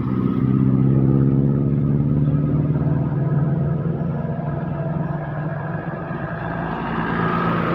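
Heavy truck's diesel engine running hard as it passes, with a steady pitch for about three seconds before fading away; another vehicle grows louder near the end.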